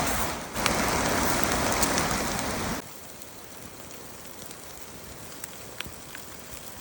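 Creek water rushing as a loud, steady noise that cuts off suddenly about three seconds in. A much quieter background follows, with a few faint scattered ticks.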